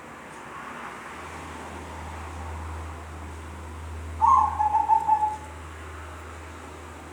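Zebra dove giving one short, rapidly pulsing coo about four seconds in, lasting about a second, over a steady low hum.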